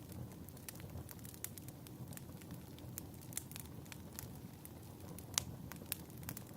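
Fireplace crackling: a low steady rumble of burning with irregular sharp pops and snaps, one louder pop a little after five seconds in.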